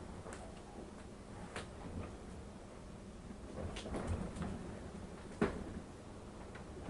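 Strong wind of about 30 mph buffeting a 2015 DRV Mobile Suites 38RSB3 fifth-wheel RV, heard from inside: a low, uneven rumble with scattered knocks and creaks from the trailer. The sharpest knock comes about five and a half seconds in.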